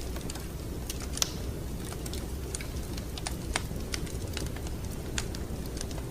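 Wood fire crackling: irregular sharp pops and snaps over a steady low rumble of the burning logs, one louder pop a little over a second in.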